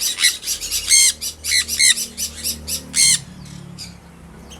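Caged small parrots calling: a rapid run of shrill chirps and squawks, several a second, that stops about three seconds in.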